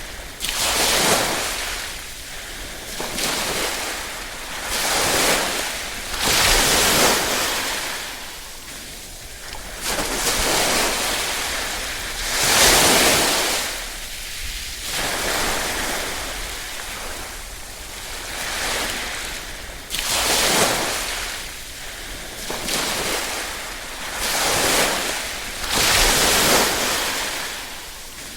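Small waves lapping and breaking on a shore, each surge swelling and washing back every two seconds or so.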